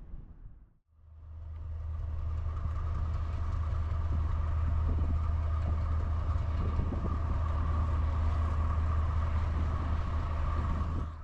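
Diesel locomotive engine running steadily, with a deep low hum and a steady higher whine above it. It fades in about a second in.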